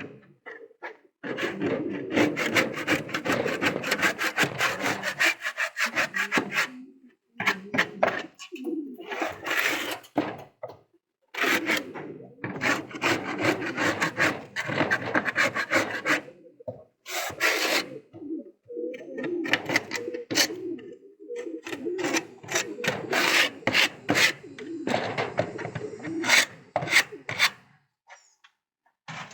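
Rapid rasping, scraping strokes in runs of a few seconds, broken by short pauses.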